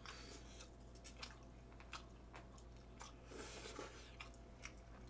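Faint chewing and mouth sounds of people eating noodles, with scattered soft clicks.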